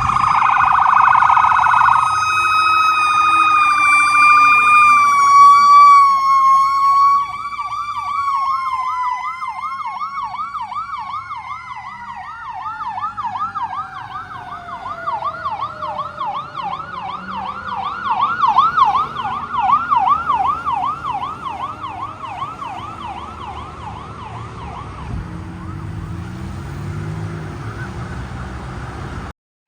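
Fire apparatus sirens on a code 3 response: a wailing siren, loudest over the first several seconds, overlaps a fast yelp that cycles several times a second until near the end. One siren tone slides steadily down in pitch partway through as the sirens fade.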